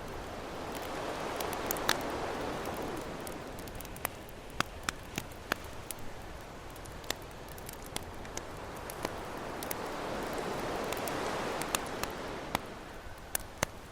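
Campfire crackling, with sharp pops scattered throughout, over ocean waves that swell and wash in twice, about nine seconds apart.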